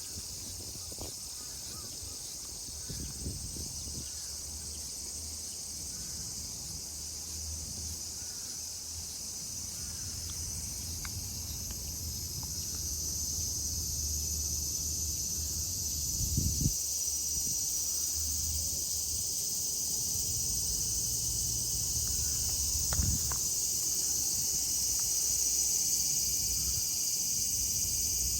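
Cicadas calling in chorus, a steady high-pitched drone that grows louder about halfway through. A couple of brief low thumps stand out near the middle and later on.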